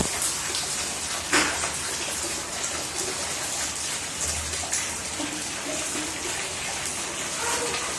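Steady rain falling, an even hiss of water, with a single sharp click about a second and a half in.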